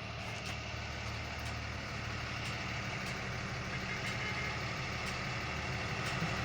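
Vehicle engines idling steadily, a low even hum, from a school bus and an SUV stopped side by side. Faint ticks come about once a second.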